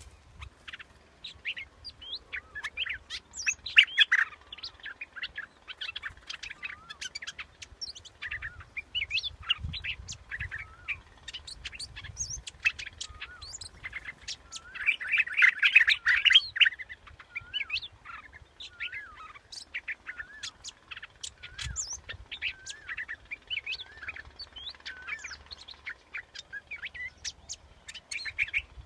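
Yellow bulbul (นกดอกแตง) singing: a busy run of quick chirps and liquid warbled notes, thickest and loudest about halfway through, as used for a decoy lure call.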